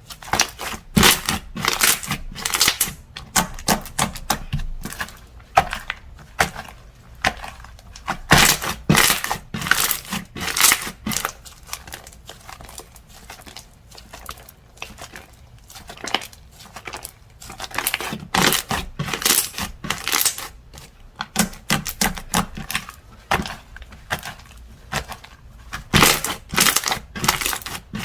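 Slime being pressed and squished by hand, making crackly clicking and popping sounds as air pockets burst, in irregular bursts with short pauses between them.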